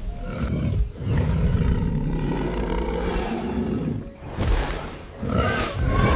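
Large animal roaring: one long drawn-out roar, then shorter calls near the end.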